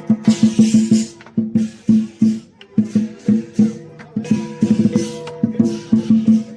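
Lion dance percussion: a drum beaten in rapid rhythmic runs, with crashing cymbals coming in short bursts between the beats.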